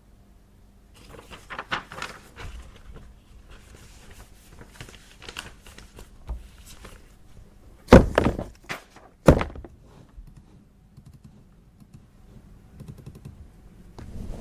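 Office desk handling, paper and small items being moved: rustling and light knocks, then two sharp thunks about eight and nine seconds in.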